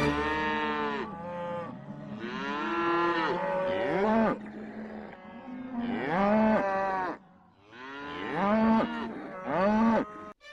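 Cows mooing: about six long moos one after another, some overlapping, each rising and then falling in pitch.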